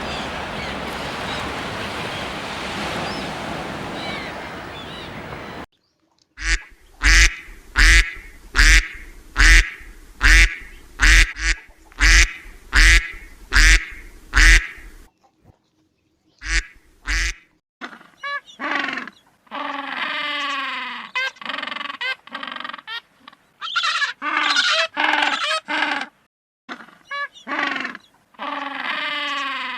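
Ducks quacking: a run of about a dozen loud quacks roughly one a second, then after a short gap bursts of rapid, chattering quacks. For the first few seconds there is only a steady noisy hiss before the calls begin.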